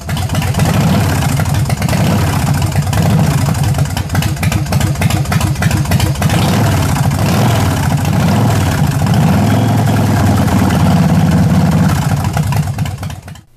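Motorcycle engine running loudly, its pitch rising and falling as it is revved, then cutting off abruptly near the end.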